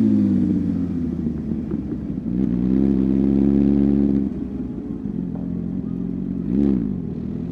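Motorcycle engine dropping in revs, then held at higher revs for about two seconds before falling back. Near the end there is a short blip of the throttle.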